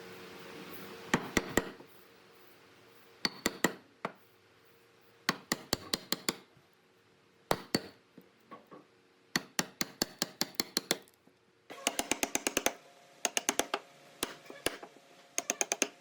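Quick runs of sharp knocks on wood, three to eight at a time, repeating with short pauses between.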